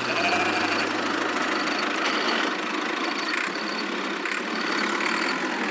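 An engine-like motor runs steadily, as of a small tractor idling, with a low hum that fades away about two seconds in.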